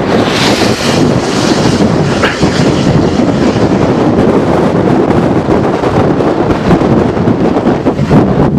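Strong wind blowing across the camera microphone: a loud, steady noise, with a brighter hiss in the first couple of seconds.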